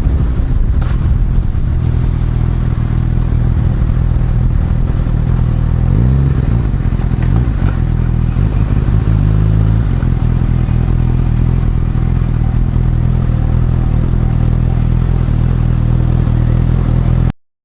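Honda CB1000R's inline-four motorcycle engine running steadily, with a brief rise and fall in pitch about six seconds in. The sound cuts off suddenly near the end.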